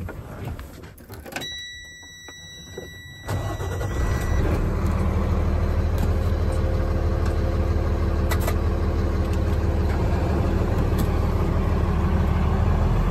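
Cummins 8.3-litre inline-six diesel in a Freightliner M2 truck starting about three seconds in, then idling steadily. A steady high beep sounds for about three seconds around the start.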